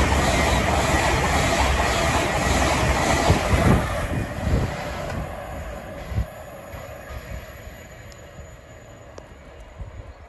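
LNER Azuma high-speed train passing close by: a loud rush of wheels and air with a few knocks of wheels over the rail joints. It dies away after about five seconds.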